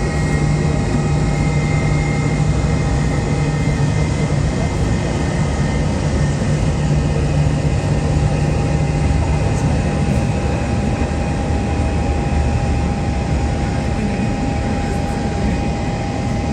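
Jet airliner engines running steadily: a constant low drone with a few thin, steady whining tones above it.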